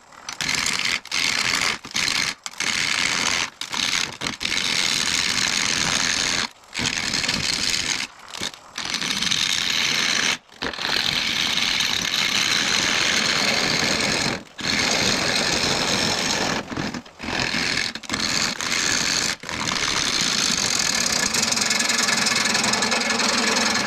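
Turning tool cutting a spinning mesquite blank on a wood lathe: a loud, rough hiss of wood being cut away, broken again and again by short gaps where the tool comes off the wood.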